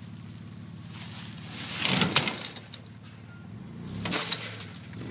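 Two bouts of scraping and crackling as an old rusty fence is wrenched out of the ground, the first a little under two seconds in and the second near the end, over a steady low hum.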